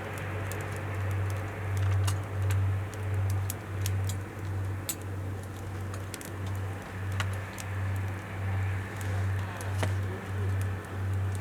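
Wood fire crackling with scattered small sharp pops, over a low hum that throbs evenly about one and a half times a second.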